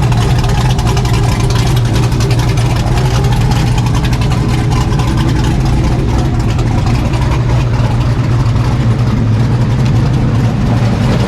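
A steady, loud low engine drone, even throughout with no revving.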